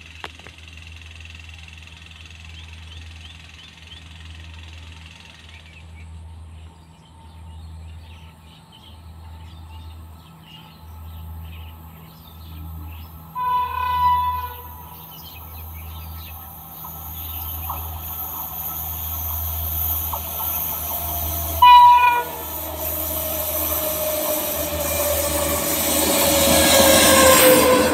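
An approaching train hauled by a WAG9 electric locomotive: two horn blasts, a longer one about 13 seconds in and a short, louder one about 22 seconds in, then the running noise of the train grows steadily louder toward the end, with a falling whine in it.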